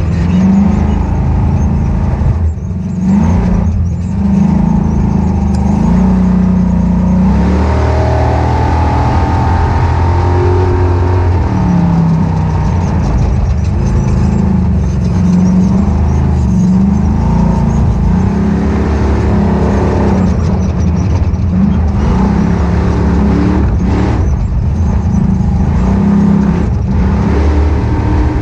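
Ultra4 off-road race car's engine running hard under racing load, its revs rising and falling as the throttle comes on and off again and again.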